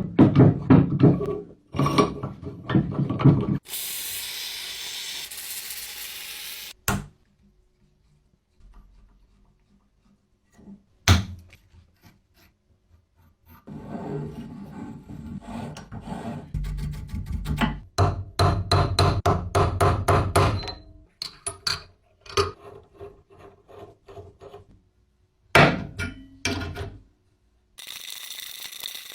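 Tool work on a small metal vise: bursts of rapid scraping and rubbing strokes with knocks, broken by a few seconds of steady hissing and short quiet gaps.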